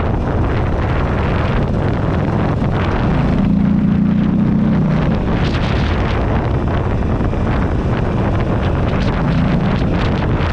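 Heavy wind buffeting on a handlebar-mounted microphone over the air-cooled V-twin of a 2008 Buell Ulysses XB12XT motorcycle under way. The engine note grows louder for a couple of seconds about three seconds in.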